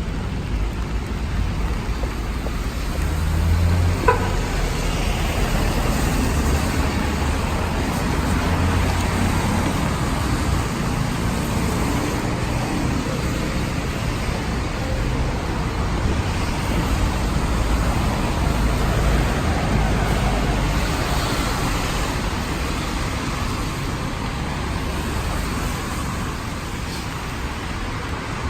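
Road traffic in the rain: vehicles passing on a wet street, their low engine and tyre rumble swelling and fading over a steady hiss. One sharp click about four seconds in.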